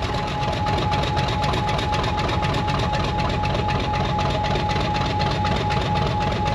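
Locomotive engine idling steadily: a low, evenly pulsing rumble with a thin steady whine above it.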